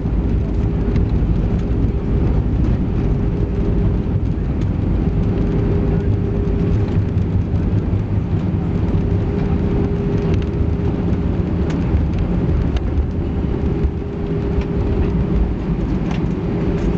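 Cabin noise inside an Airbus A320-214 rolling on the ground after landing: its CFM56 engines running at low power and the wheels rumbling, with a steady hum throughout and a few faint clicks near the end.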